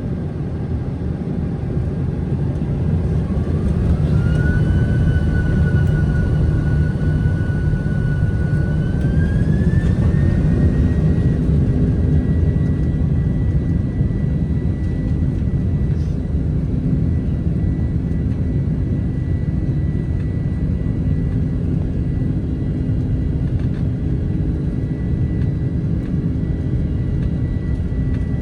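Boeing 767-300ER jet engines spooling up to takeoff thrust, heard inside the cabin. A whine rises in pitch about three seconds in, holds, then climbs again around ten seconds in and stays steady over a heavy rumble as the airliner accelerates down the runway on its takeoff roll.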